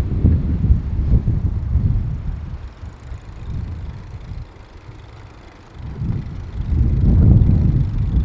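Wind buffeting the microphone while cycling: a low, gusty rumble that dies down for a few seconds in the middle and rises again near the end.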